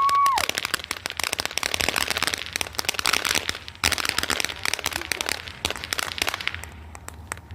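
Firework crackling: a dense, rapid run of small pops and cracks that thins out and fades near the end.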